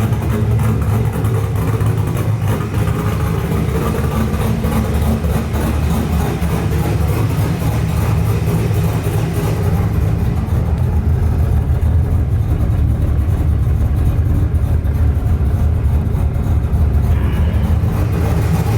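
GM LS V8 engine in a swapped Toyota Cressida running steadily and loudly through a freshly made single exhaust and muffler that are not yet fully welded.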